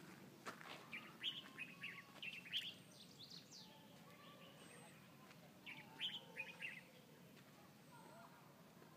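Faint small-bird chirping: quick runs of short, falling notes in two spells, about a second in and again about six seconds in, over a light open-air hiss.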